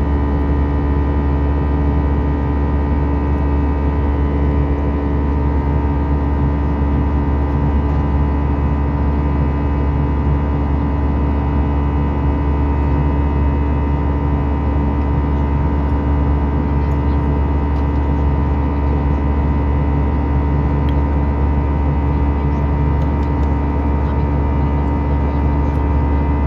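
Airbus A320 cabin noise in flight: a steady engine and airflow drone with a deep low rumble and several constant tones, unchanging throughout.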